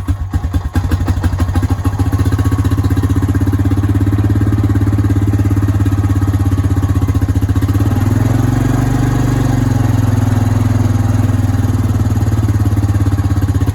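Honda ATV's single-cylinder four-stroke engine idling steadily just after starting on a squirt of starting fluid fed through a straw into the intake. The engine speed picks up briefly about two-thirds of the way through, then settles.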